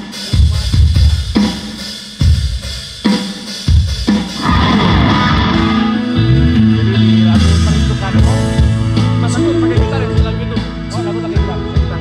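Band music: a drum kit sounds a few separate loud hits, then about four seconds in bass, guitar and drums play on together.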